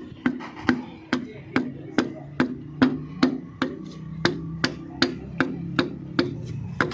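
A hammer tapping steadily in a fast, even rhythm, about two and a half blows a second, each with a short dull ring, during work on a tractor diesel engine.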